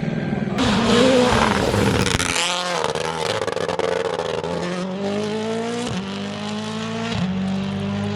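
Rally cars at speed in a string of short cuts, engines revving with the pitch climbing as they accelerate.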